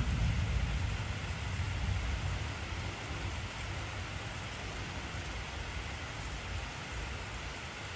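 Steady heavy rain, with a deep rumble of thunder, already under way at the start, that fades away over about seven seconds.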